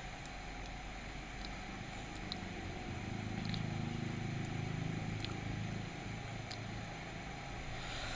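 Quiet room tone from a large hall, with a faint low rumble that swells for a few seconds in the middle and a few faint ticks.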